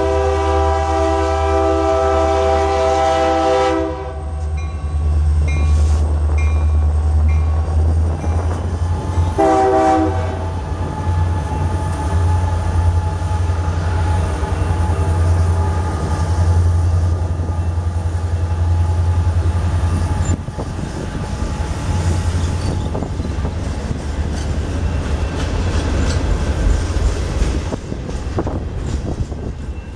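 Freight train diesel locomotives sounding a multi-note air horn, held for about four seconds and then given one short blast about ten seconds in. The locomotives' engines rumble under the horn, and the freight cars clatter past on the rails.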